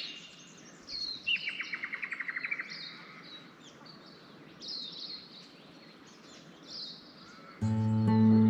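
Wild birds chirping and calling, with a rapid trill of about a dozen quick notes about a second in. Background music with guitar starts near the end.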